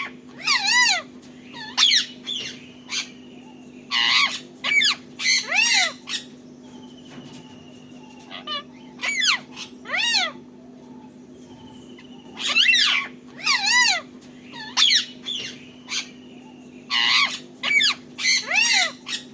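Ringneck parakeets giving repeated shrill screeching calls in clusters of two or three, each call rising and then falling in pitch, with fainter thin whistles between them. A steady low hum runs underneath.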